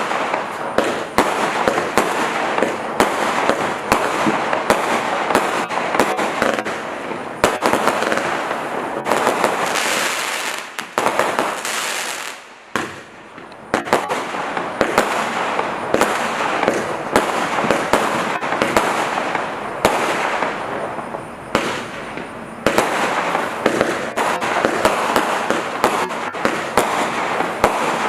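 Display firework cakes and barrages firing continuously: a dense crackle with many rapid bangs and pops, easing briefly a little before halfway and then building again.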